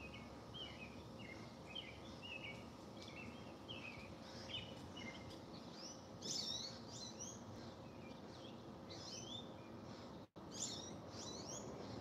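Small birds chirping over a steady background hum: a run of quick chirps at first, then louder, higher chirps that sweep downward from about halfway.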